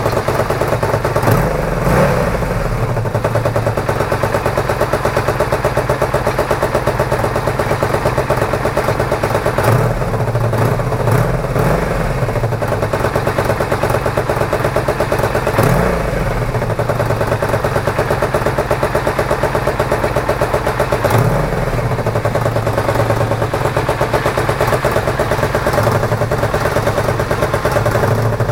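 Honda VF1000F2 Bol d'Or's liquid-cooled V4 engine idling steadily, with about four brief blips of the throttle, each rising and falling. It is running on its first start after an engine transplant.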